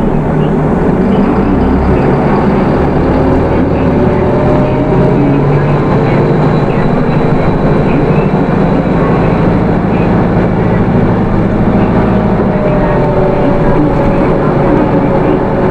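Hino Rainbow II route bus under way, its Isuzu 4HK1 four-cylinder diesel engine running steadily with road noise. The engine note shifts slightly in pitch a few times.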